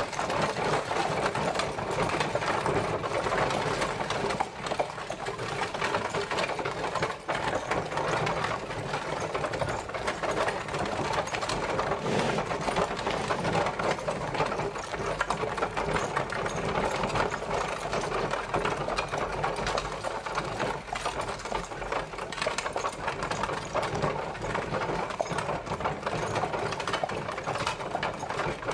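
Horse-drawn carriage on the move: a continuous, dense rattle and clatter of the wheels and body, with no pauses.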